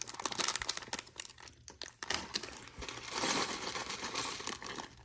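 Thin plastic Lego parts bags crinkling as they are handled, with small plastic pieces clicking now and then. The crinkling is loudest between about three and four and a half seconds in.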